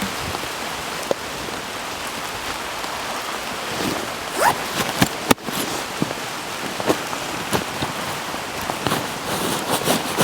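Steady rain falling, with many separate drops landing close by, and a few sharper taps and knocks about halfway through.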